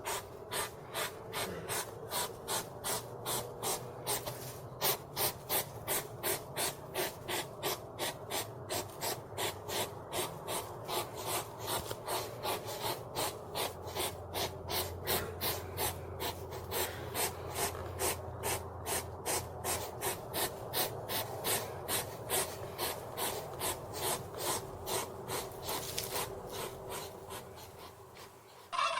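An animal's rapid, rhythmic breathing or sniffing, about three short breaths a second.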